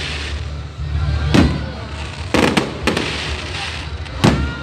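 Aerial fireworks bursting: several sharp bangs, a quick cluster of them near the middle, over a steady low rumble.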